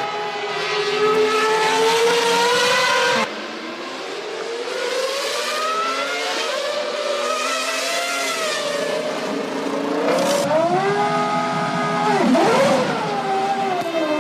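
Formula One car engines, 1998-era 3-litre V10s, running at high revs, their pitch rising and falling with acceleration and gear changes. The sound changes abruptly about three seconds in, and near the end the pitch drops sharply and climbs again as a car brakes, downshifts and accelerates.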